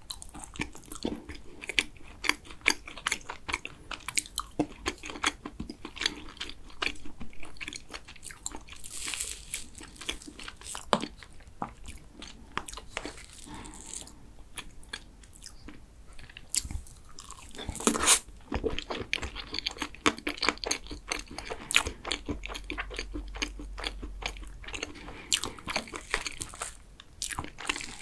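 Close-miked chewing and crunching of a mint chocolate cake topped with chocolate curls, a dense run of many small crunches.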